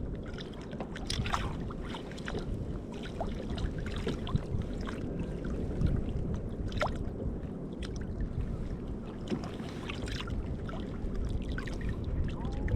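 Sea water lapping around a fishing kayak with a steady low rumble of wind on the microphone, broken by scattered small splashes and clicks.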